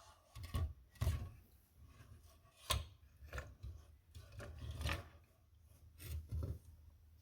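Irregular knocks, clicks and scrapes of parts and containers being handled on a workbench, about seven separate sounds with uneven gaps.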